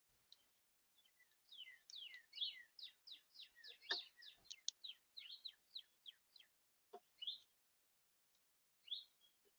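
Songbird singing at a feeder: a fast run of short notes, each sliding down in pitch, then a few single calls. A couple of soft knocks sound mid-song.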